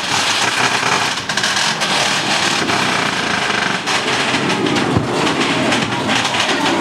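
Mine-train roller coaster running along its track at speed: a loud, dense, continuous rattle and clatter of the cars and wheels.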